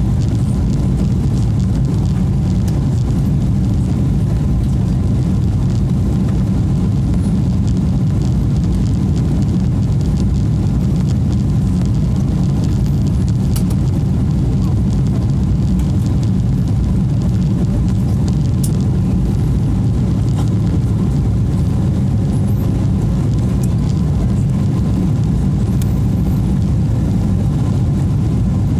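Steady cabin noise of a Boeing 777-300 airliner: its engines and the airflow make an even low rumble that holds at one level throughout, with a faint steady hum above it.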